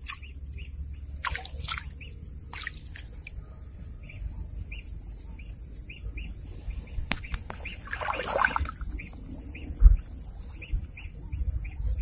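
A bird's short high chirps repeating about two to three times a second, with rustling clicks and a splash of water a little past the middle.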